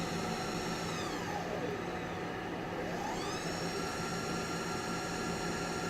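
Submersible's thruster motors whining over a steady low machinery hum. The whine falls in pitch about a second in and climbs back up about three seconds in as the pilot slows the sub and then eases it forward.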